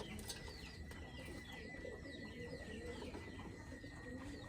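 Domestic pigeons cooing softly, with many short, falling chirps from small birds throughout.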